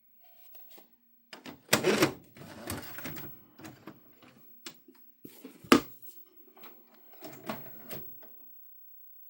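Plastic clicks and knocks of a VHS videotape and its case being handled, in irregular clusters with a sharp, loudest knock a little before six seconds in.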